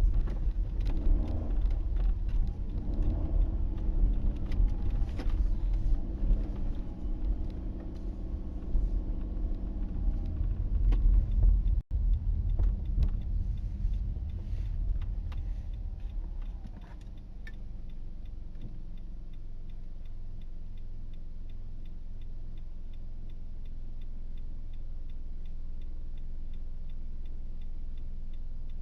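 A car's engine revving hard and unevenly while the car is stuck on packed snow and struggling for traction. About 17 seconds in it drops to a quiet, steady idle, and an indicator ticks at an even pace.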